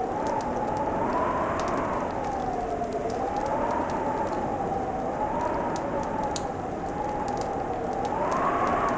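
Fireplace crackling, with small sharp pops scattered throughout. Behind it runs a steady rushing noise and a whistling, howling tone that slowly rises and falls.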